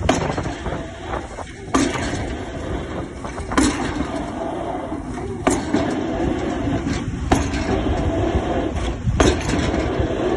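Excavator drop hammer striking a square concrete pile: six sharp blows, about one every two seconds, over steady engine noise.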